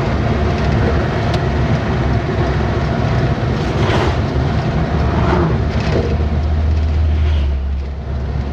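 Steady engine and road rumble of a moving vehicle, heard from inside the vehicle, with a low drone that steadies briefly near the end.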